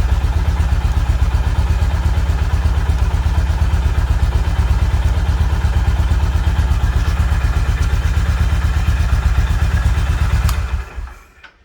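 Honda CB350 RS's single-cylinder engine running steadily through its exhaust, a deep even thump. It is shut off about ten and a half seconds in and dies away within half a second, leaving a few faint clicks.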